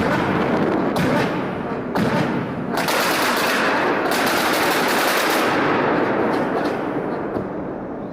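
A turbocharged car's anti-lag system firing a dense string of rapid bangs and crackles through the exhaust, with sharper hits about one, two and three seconds in, easing off near the end.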